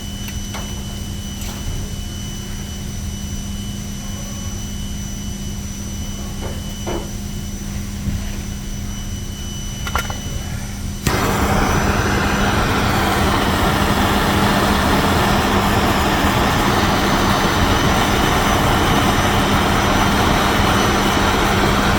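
A steady electric hum with a few light clicks. About halfway through, a hot-air tool switches on abruptly and runs with a loud, even rushing noise while the welded plastic repair is worked.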